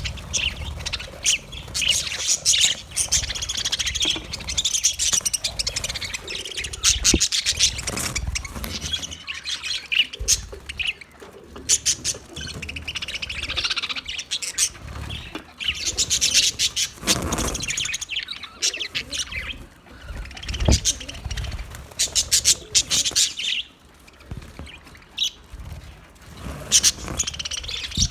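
A flock of budgerigars chattering and warbling, with rapid clicks, chirps and squawks overlapping, and occasional low thumps.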